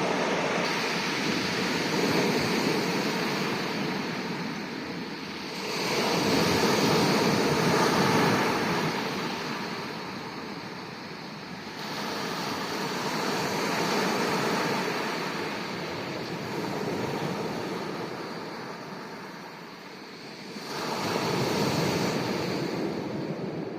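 Sea waves breaking and washing up on the shore, the rush of water swelling and ebbing about every six to eight seconds.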